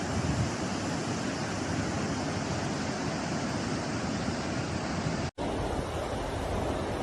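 Steady rushing of floodwater flowing down a wadi, with wind on the microphone. The sound cuts out for an instant about five seconds in.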